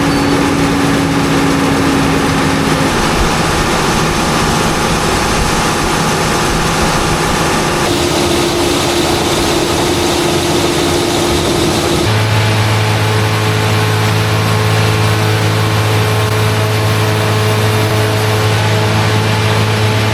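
Heavy farm machinery engine running steadily under load, its note changing abruptly twice.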